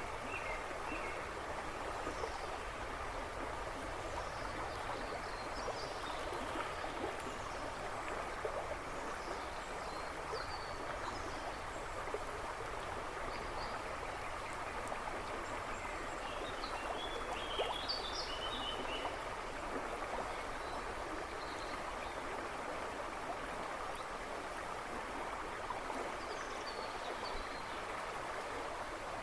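A river babbling and rushing steadily over stones, with a few birds chirping in the woods behind it, a brief burst of song around two-thirds of the way through.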